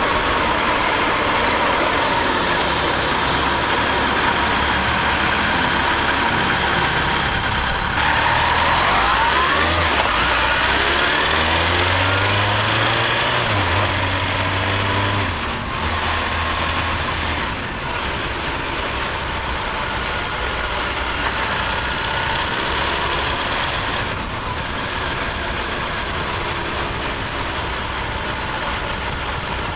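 Honda CB1300 Super Bol d'Or's inline-four engine heard through a bike-mounted external microphone while riding in town: steady running, with revs rising about eight seconds in and easing off after about fifteen seconds. A steady wash of wind and road noise runs under it.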